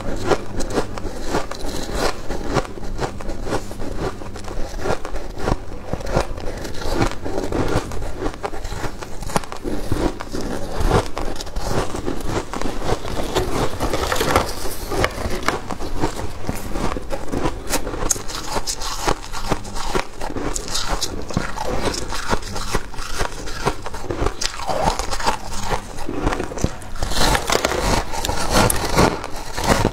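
Freezer frost crunching as it is bitten and chewed, a continuous run of crisp crunches.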